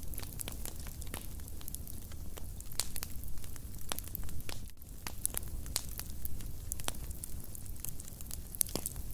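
Fire burning in a fireplace: steady low rumble of flames with many irregular sharp crackles and pops.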